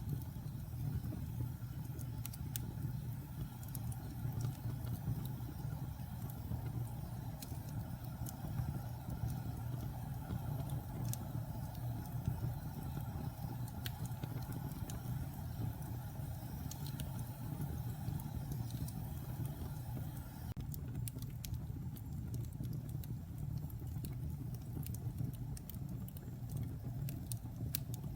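Wood fire burning in a fireplace: a steady low rumble with scattered sharp crackles and pops, which come a little more often in the last several seconds.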